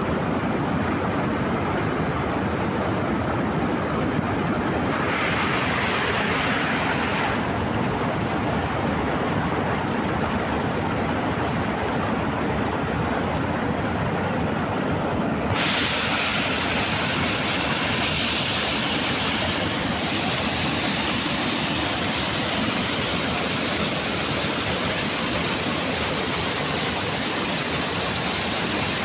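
Steady rushing water. About halfway through it turns brighter and hissier.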